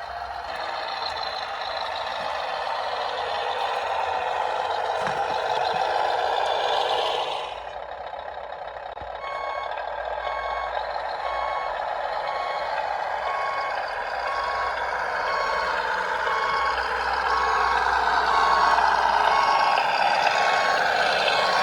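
Tamiya Scania R730 radio-controlled model truck running, its sound unit playing a truck engine sound that rises and falls with the driving. From about nine seconds in, a steady reversing beeper sounds, about one and a half beeps a second, as the truck backs up.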